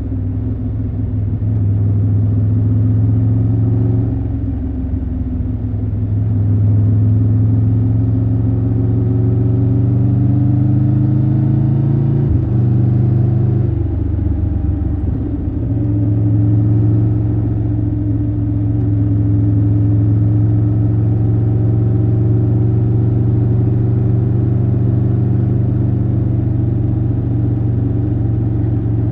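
Triumph Tiger 1200 Rally Pro's inline three-cylinder engine running while riding. Its note holds steady for long stretches, dips about four seconds in, and changes again around twelve to fifteen seconds in with a quick sweep in pitch before settling back to a steady drone.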